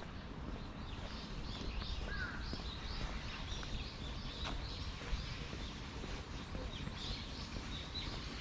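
Small birds chirping: quick, short, high calls repeated several times a second, with one lower slurred call a couple of seconds in, over a steady low outdoor rumble.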